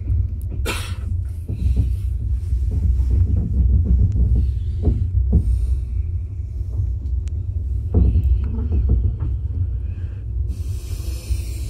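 Moving train heard from inside the carriage: a steady low rumble with scattered knocks and rattles, and a burst of hiss near the end.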